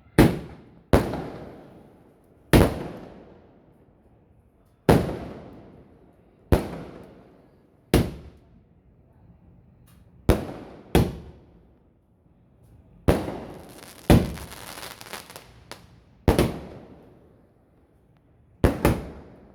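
A 120-shot multi-shot firework cake firing: about a dozen sharp bangs, spaced one to two seconds apart, each with a fading echo. A crackling hiss runs between two of the bangs in the middle.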